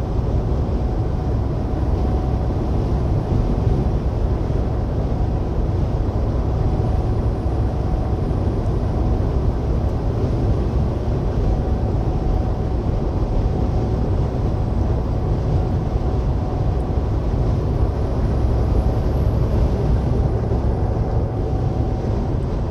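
Steady low drone of a semi truck cruising at highway speed, heard from inside the cab: engine, tyre and road noise running evenly throughout.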